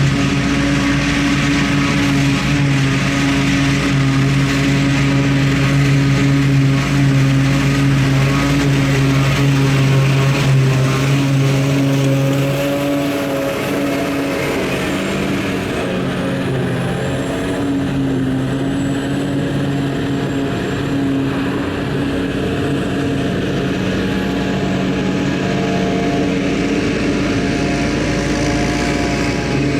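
Diesel engines of farm machinery running steadily during silage work; about twelve seconds in the engine note changes and drops slightly in level.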